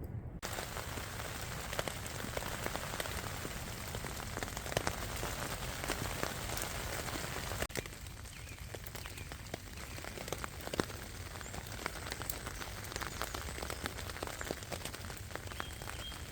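Steady rain falling, with many separate drops tapping. About eight seconds in it cuts to a slightly quieter stretch of the same rain.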